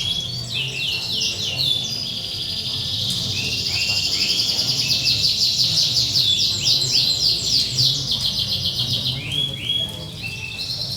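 Domestic canaries singing long, unbroken songs of rapid repeated trills, phrase running into phrase with songs overlapping, over a faint low background hum.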